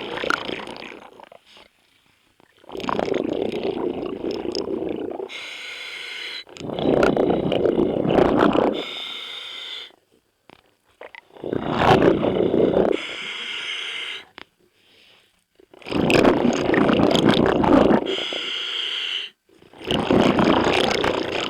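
Scuba diver breathing through a regulator underwater: a rumbling burst of exhaled bubbles about every four to five seconds, with the hiss of each inhalation between them.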